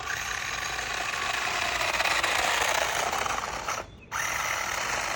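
Small electric RC car's motor and gears running with a buzzing, rattly whir. The whir cuts out briefly about four seconds in, then picks up again.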